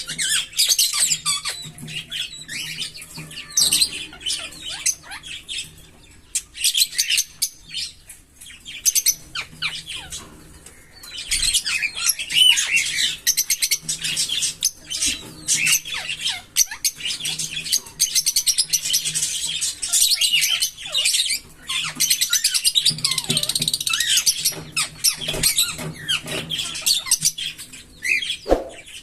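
A pair of green Fischer's lovebirds chirping and chattering in rapid, high-pitched strings, with a few short lulls early on and a long unbroken run of chatter in the middle.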